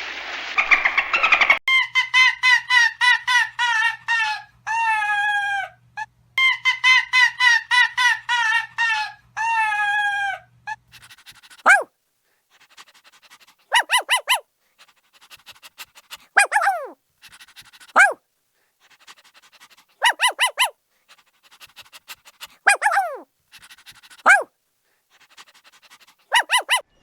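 Animal calls of two kinds in turn. First come quick runs of high, clear notes in phrases, each phrase dropping in pitch at its end. From about eleven seconds in, short sharp calls fall steeply in pitch, in small groups with pauses between.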